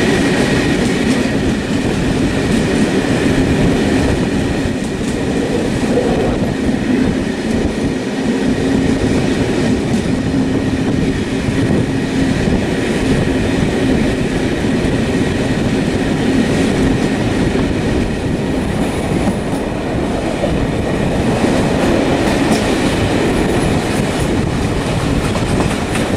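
A loud, steady rumbling noise with a low steady hum in it, continuous throughout.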